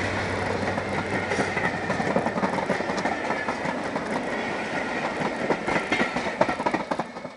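A diesel-hauled passenger train passing close by: the passing locomotive's engine noise dies away as the coaches roll past. Their wheels click over the rail joints, most plainly near the end.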